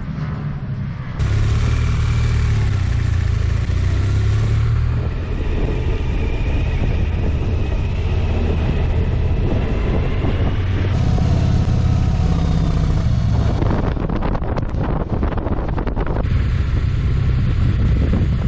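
Motorcycle engines running on the move, with road and wind noise. The sound changes abruptly several times, as clips from different cameras are cut together.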